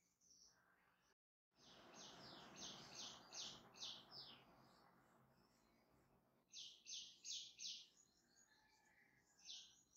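Small birds chirping in quick runs of short high notes: a run of about six, then a run of four, then a single chirp near the end. They sound faint over a soft hiss, with a brief total cut-out just after the start.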